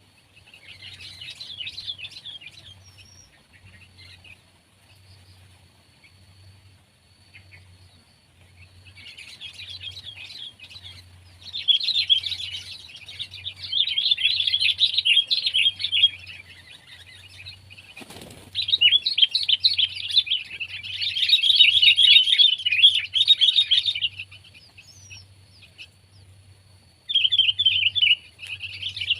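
Sooty-headed bulbul chattering and twittering in rapid, dense bouts a few seconds long with short pauses between, the loudest bouts in the middle and latter part. A single sharp click sounds just past halfway.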